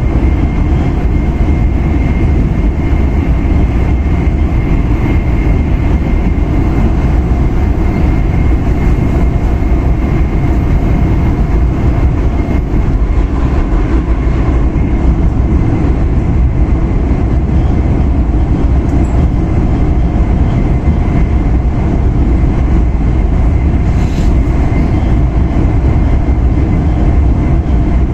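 Running noise inside the cabin of an E5 series Shinkansen at speed: a steady, heavy rumble of wheels and air, with a faint high whine through roughly the first half.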